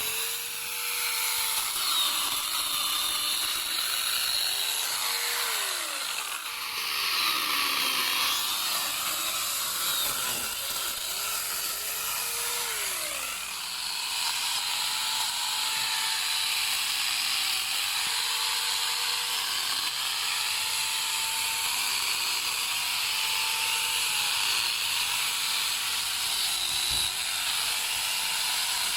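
Angle grinder fitted with a small chainsaw attachment, running under load as it cuts through wood. Its whine sags in pitch again and again as the chain bites in and bogs, then recovers.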